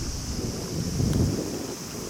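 Wind buffeting the microphone in gusts, a low uneven rumble that swells about a second in, over a steady high hiss.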